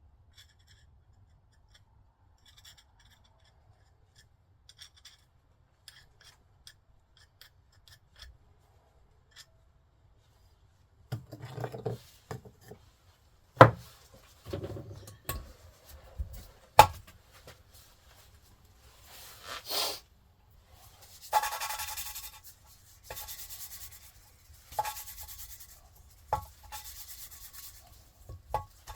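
Faint ticks, then handling noises with a few sharp knocks, then repeated hand rubbing or scraping strokes, about one every second or so.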